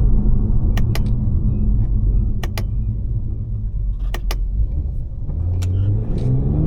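Tuned BMW 540i's B58 turbocharged inline-six engine running at a low, steady rumble while driving, then revving up near the end. Pairs of short sharp clicks recur about every second and a half.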